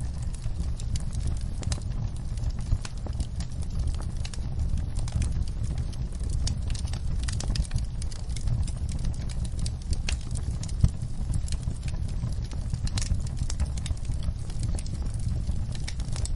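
Wood fire crackling in a fireplace: irregular sharp pops and snaps over a steady low rumble, with rain in the background. One pop about two-thirds through is louder than the rest.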